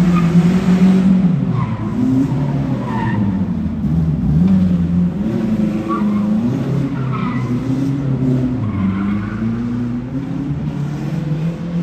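A car engine revving up and down hard while its tires squeal and skid, as in drifting or spinning donuts.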